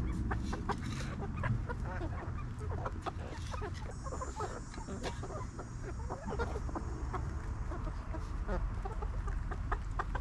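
Backyard chickens clucking, many short calls scattered throughout, over a steady low rumble.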